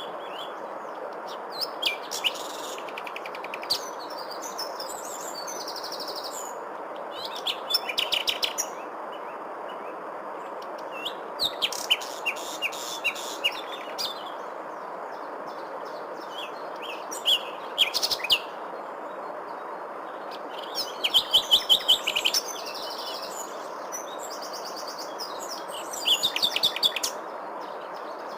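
Songbirds singing in short phrases of high chirps and trills every few seconds, over a steady background hiss.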